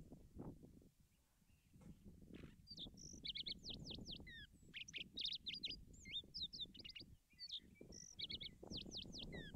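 A songbird singing a run of quick chirps and short downward-sweeping notes, starting about two and a half seconds in, over a low rustle of radish leaves being handled.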